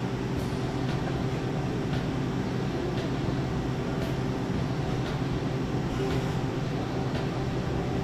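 Five-axis CNC machine milling aluminium at high speed: a steady mechanical drone with a low hum.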